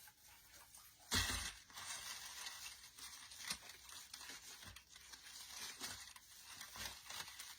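Faint rustling and crinkling of an artificial pine swag being handled and adjusted, with a short knock about a second in and scattered small clicks.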